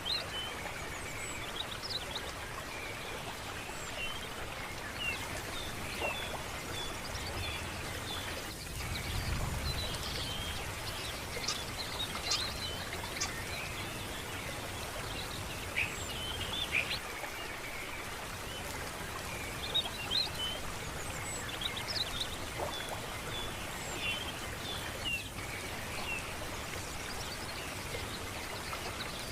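Birds chirping and calling over a steady rush of running water, with a brief low rumble about nine seconds in.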